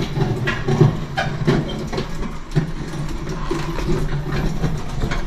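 A steady low mechanical hum, with scattered short knocks and clanks throughout.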